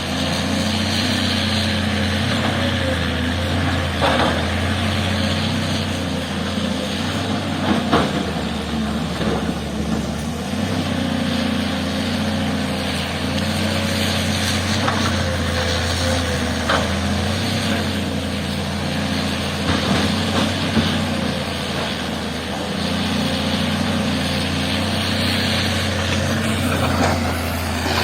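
Heavy diesel engine of an earthmoving machine running and working under changing load, with a few sharp knocks scattered through.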